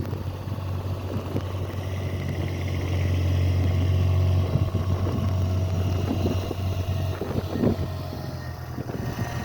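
Engine of a snow-removal vehicle running steadily as it works slowly clearing snow, getting louder a few seconds in and then easing off.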